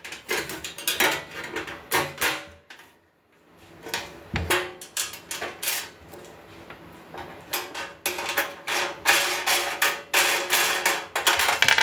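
Metal grill parts clanking, rattling and knocking together as they are fitted during assembly, with a brief pause about three seconds in and a denser run of clatter near the end.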